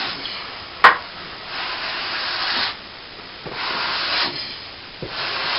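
Steel plastering trowel scraping back set cornice cement on a patched plasterboard ceiling, in three long strokes, after a single sharp tap about a second in.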